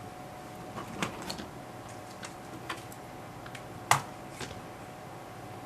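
Scattered light clicks and taps from small parts being handled while they are glued, the loudest a sharp click about four seconds in, over a faint steady hum.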